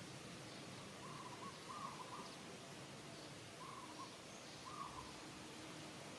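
A bird's hooting call: a short phrase of two or three notes, repeated twice about two and a half seconds apart, over faint outdoor background hiss.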